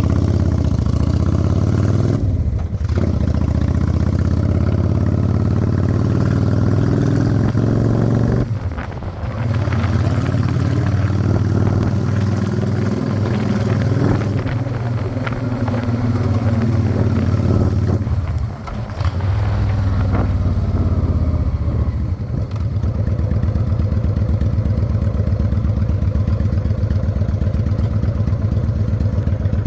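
Honda Shadow 600 chopper's V-twin engine running under way, its note dropping away briefly about three times and picking up again. About two-thirds of the way through it settles into a steady, lower, evenly pulsing beat.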